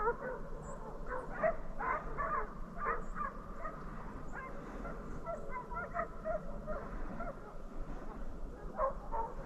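A pack of deer-drive hounds baying and barking far off while running a deer, their short calls overlapping in a steady, irregular chorus.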